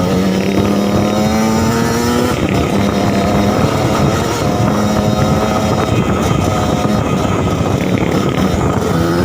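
Suzuki TS 125 trail bike's two-stroke single-cylinder engine running under throttle. Its pitch rises over the first two seconds, then drops away and picks up again several times as the throttle is rolled off and on.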